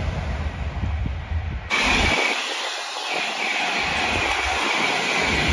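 Wind buffeting the microphone over a distant train, then an abrupt change about a second and a half in to an electric passenger train passing close at speed: a rushing hiss with a steady high whine.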